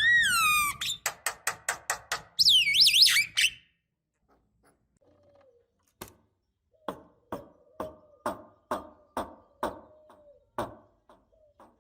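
Javan myna singing: a loud whistled down-slurred call, a quick rattle of clicks, and a burst of high warbling whistles, then after a short pause a steady run of sharp clicking notes, about two a second.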